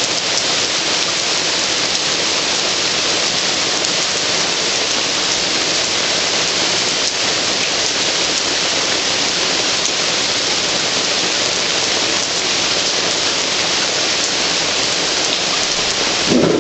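Heavy rain falling steadily on hard surfaces, a dense even hiss.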